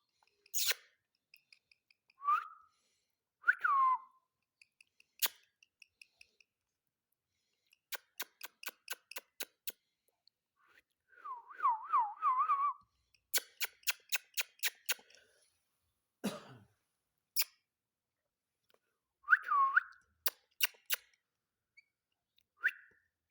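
Short whistled notes, most of them falling in pitch, and a wavering warbled trill about halfway through. Between them come two runs of sharp rapid clicks at about five a second, and a single dull knock a few seconds later.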